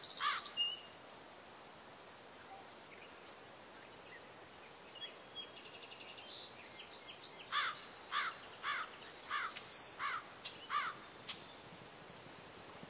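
Faint outdoor background hiss with a bird calling: two quick falling chirps at the start, then a run of about seven more in the second half, roughly two a second.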